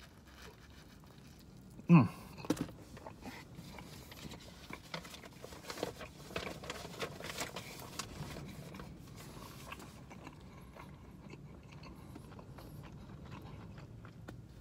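Close-up chewing of a bite of pizza crust: small irregular crunches and mouth clicks that thin out about ten seconds in. About two seconds in, a short vocal sound falling in pitch comes from the eater and is the loudest thing.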